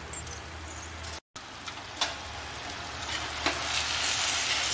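Spiced masala paste sizzling in a wok as shredded boiled chicken goes in and a spoon stirs it. There are a couple of short spoon knocks, and the sizzle grows louder after about three seconds.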